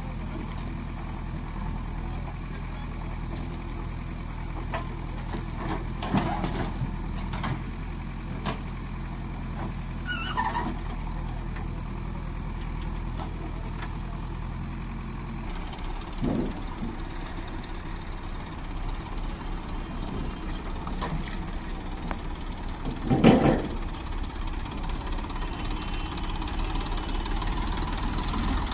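Diesel engine of a JCB 3DX backhoe loader running steadily, its note changing about halfway through, with several short knocks and clanks, the loudest near the end.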